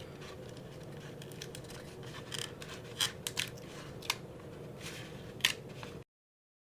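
A few small sharp clicks and scratches, like plastic pieces being handled, over a faint steady hum. The sound cuts off suddenly near the end.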